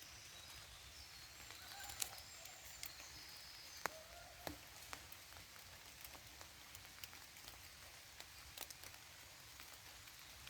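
Faint rain in a forest: a soft steady patter with scattered individual drops ticking sharply on leaves, and a few short faint high chirps in the first few seconds.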